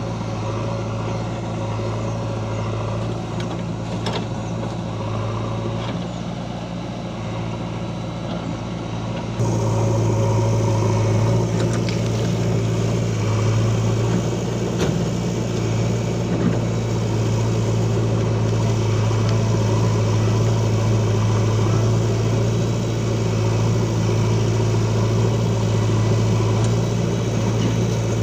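Heavy diesel engine of a tractor or backhoe loader running steadily with a low, even hum. It gets louder and fuller about nine seconds in.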